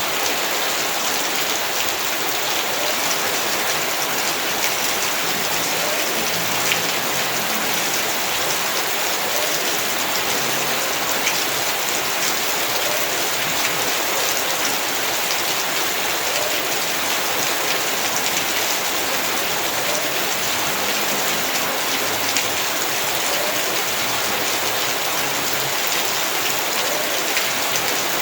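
Heavy rain falling steadily, a dense even hiss of drops with the odd louder drop tick standing out.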